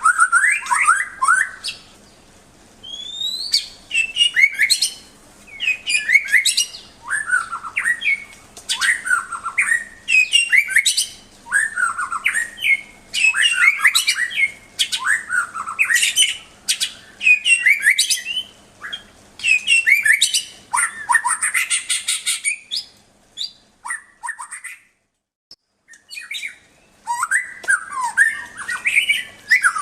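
White-rumped shama (murai batu) singing: a fast run of varied phrases of whistled sweeps, trills and chattering notes, one after another, with a short pause a little past three-quarters of the way through before the song resumes.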